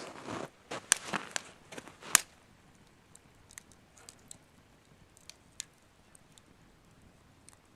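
A quick cluster of knocks and scrapes in the first two seconds, then a wood campfire crackling with sparse faint pops.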